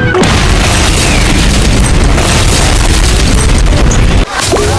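A very loud, sustained explosion-like boom and rumble, dense noise heaviest in the bass, that starts suddenly and cuts off abruptly about four seconds in.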